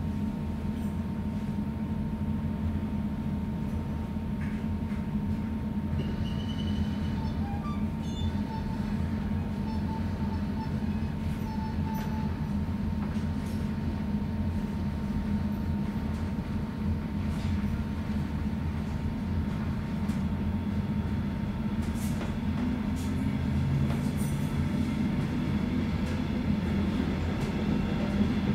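Inside a Metronom double-deck regional train coach as it pulls slowly away from a station: a steady low rumble and hum of the running train, with a faint steady tone. A low tone comes in and the sound grows slightly louder near the end as the train gathers speed.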